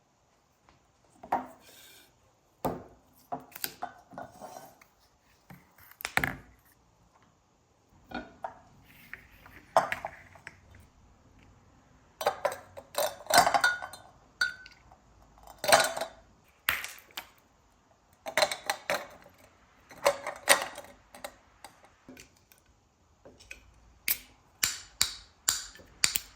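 Dishes and utensils being handled: irregular clinks and knocks, one of them ringing briefly about halfway through.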